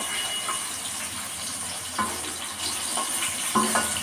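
Tomato pieces frying in hot mustard oil in a metal kadhai: a steady sizzle, with a few short knocks as the wooden spatula stirs them against the pan.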